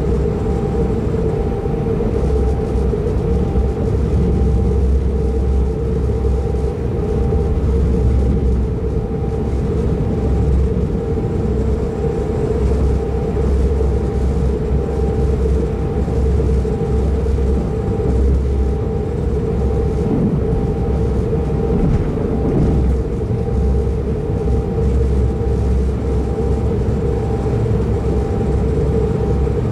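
Pendolino tilting train running at speed, heard inside a passenger car: a steady low rumble of wheels on rail, with a constant hum and a faint whine over it.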